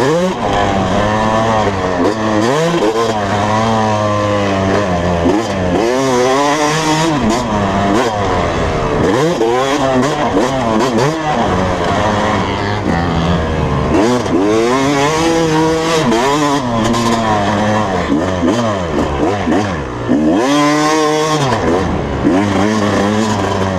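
Dirt bike engine ridden hard around a motocross track, revving up and dropping off again and again. The pitch climbs with each burst of throttle and breaks off as the rider shifts or lets off.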